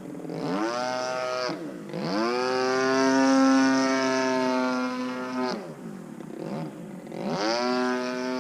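DLE 35RA single-cylinder two-stroke gasoline engine of an RC aerobatic plane in flight, on a freshly rebuilt top end. Its pitch drops and climbs back again three times as it is throttled back and opened up, and holds steady and high in between.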